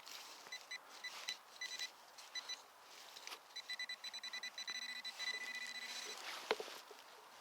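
Metal detector beeping on a target: a few short high beeps at first, then a fast run of beeps lasting about two and a half seconds. A single sharp knock comes near the end.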